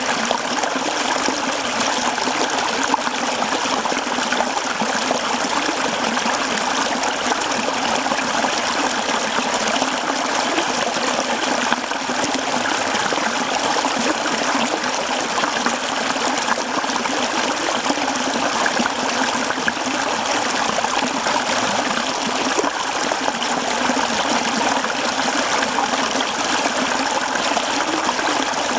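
Mountain stream running over rocks, a steady rushing and babbling of water with no change in level.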